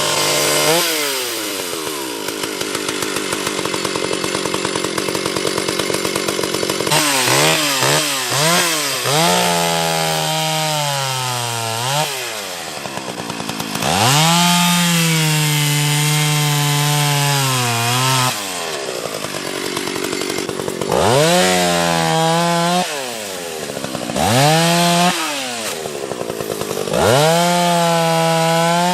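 Stihl 031 AV two-stroke chainsaw running at high speed. After about seven seconds its pitch dips and recovers again and again, the engine pulling down under load as the chain bites into wood.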